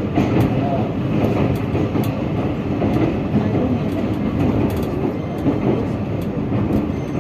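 Passenger train running along the track: a steady rumble with scattered short clicks from the wheels and rails.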